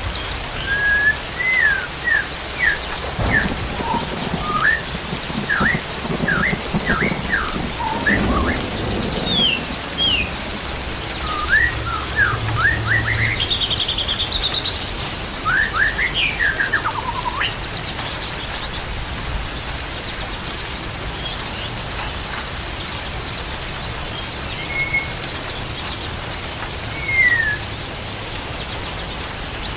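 A songbird chirping in clusters of quick, sharp rising and falling notes, busiest in the first half and sparser later, over a steady background hiss.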